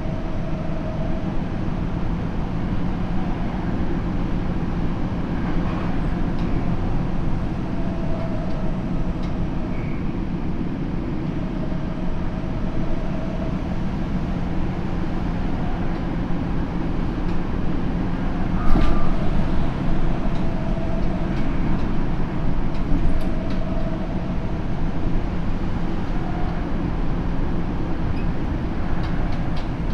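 Tokyo Metro 7000 series electric train, with Hitachi IGBT-inverter traction and 160 kW motors, running at speed, heard from inside the car: a steady rumble of wheels on rail and running gear. A single sharp knock comes about two-thirds of the way through.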